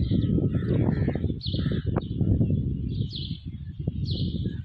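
Birds chirping repeatedly, short high falling notes about once a second, over a constant low rumble.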